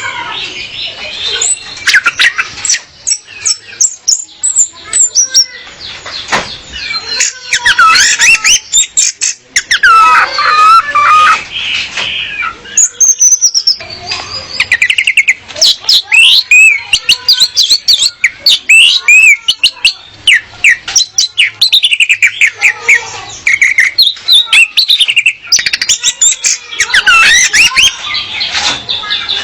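Female orange-headed thrush singing: a nearly continuous, rapid run of varied chirps, sweeping whistles and trilled notes, with only brief pauses.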